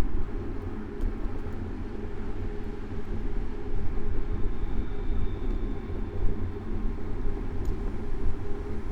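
Street traffic heard from a moving bicycle, with a heavy low rumble of wind and road vibration on the bike-mounted camera's microphone. A faint thin whine comes in about halfway through.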